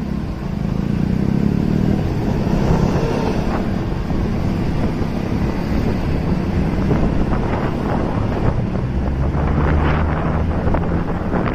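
Motorcycle engine running while riding, its pitch shifting with speed, with wind buffeting the microphone. The wind grows stronger near the end.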